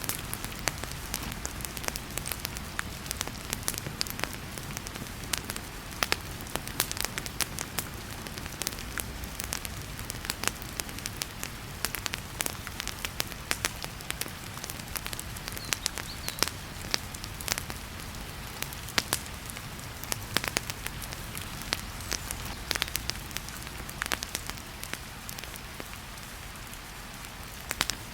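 Wood fire crackling and popping with frequent sharp snaps, over a steady hiss of heavy rain.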